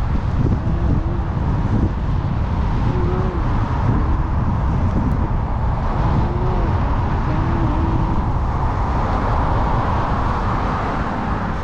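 Steady wind rumble on the microphone with tyre noise while an e-bike is ridden along a track, with faint short wavering tones now and then underneath.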